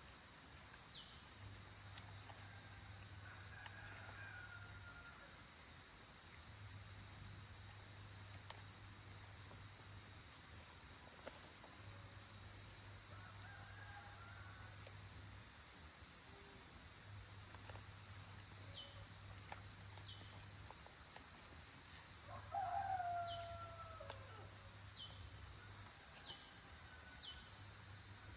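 Rooster crowing once, loudly, about two-thirds of the way through, with fainter crows earlier, over the steady high-pitched trill of insects.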